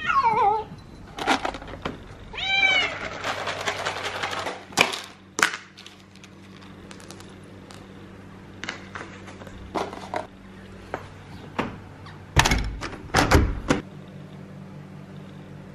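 A cat meows twice in the first few seconds, a short falling meow and then a longer arching one. Scattered clicks and knocks follow, with two heavy thumps near the end.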